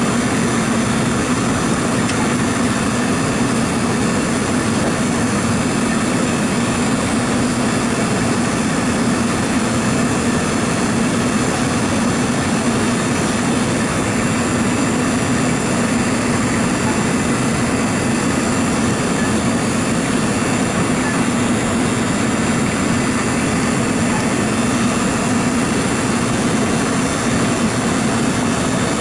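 Steady machine noise with a low hum, unchanging in level and pitch.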